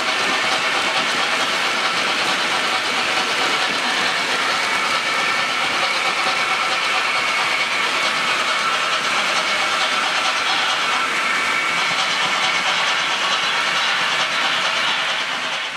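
Steady train running noise: an even hiss and clatter with faint steady whine tones, fading out at the very end.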